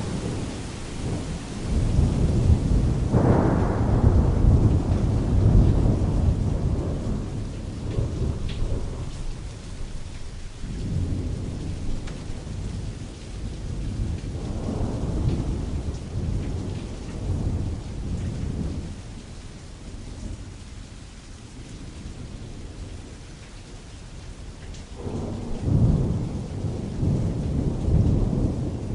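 Steady rain pattering on canvas with distant rolling thunder. The rumbles swell and fade several times, with strong ones starting about three seconds in and again near the end.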